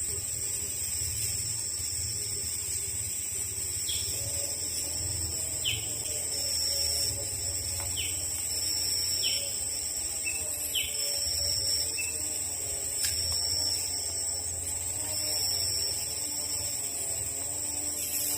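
Forest insects droning steadily at a high pitch, with a bird giving short, sharp falling notes every second or two, and fainter wavering calls lower down.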